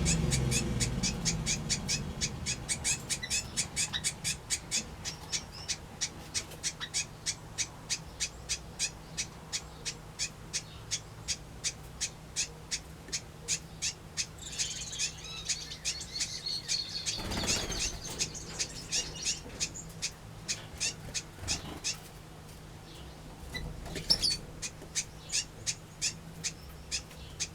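Small aviary birds calling: one bird repeats a short, high chirp about three times a second, and others join in with a burst of twittering a little past the middle. The chirping stops briefly and then resumes near the end, over a faint steady low hum.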